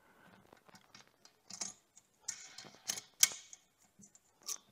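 Irregular clicks and knocks of a handheld power sander being pushed and turned against the clamp ring of a tilting sander base. It is too big to fit.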